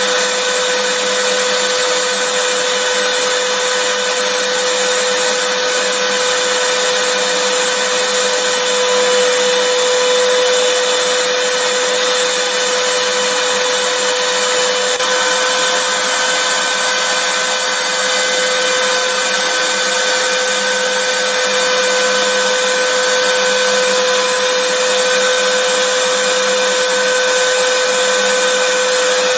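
Vacuum cleaner motor running steadily, a constant whooshing noise with a steady whine.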